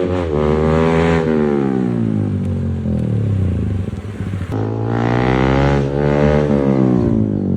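Sport motorcycle engine revving twice: each time the pitch climbs quickly, peaks, and slowly falls away, with an abrupt cut between the two.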